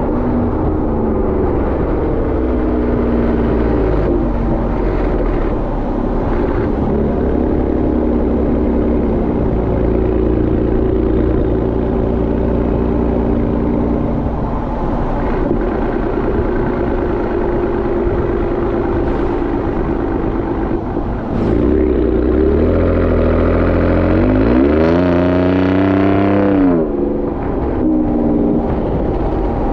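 Exhaust of a second-generation Ford Raptor's twin-turbo V6 fitted with a Borla Atak exhaust, heard from the rear of the truck while driving. It runs steadily at cruise. A little over twenty seconds in, the revs climb under throttle and then fall away.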